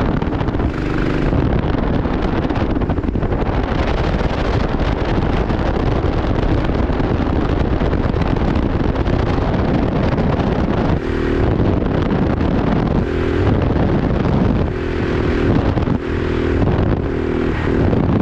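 Go-kart engine running at race pace under heavy wind noise on the microphone. From about eleven seconds in, the engine's pitch comes through more clearly in several short stretches.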